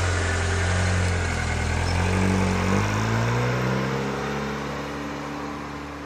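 Car engine accelerating. Its pitch breaks a little under halfway, then climbs steadily while the sound grows fainter toward the end.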